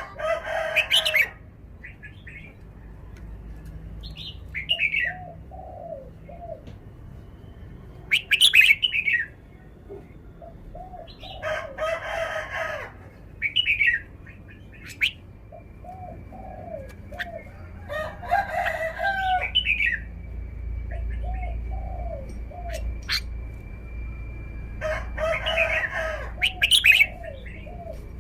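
Caged red-whiskered bulbul singing loud, short, warbling song phrases every few seconds, with shorter chirps and other bird calls between them.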